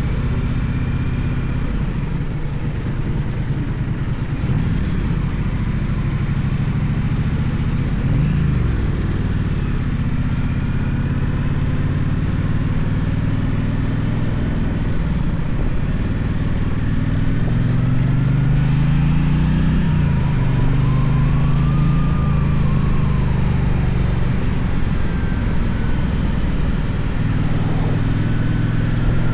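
Gaokin GK1200 motorcycle engine running under way, its revs rising and falling as the bike speeds up and slows, with a steady rush of road noise.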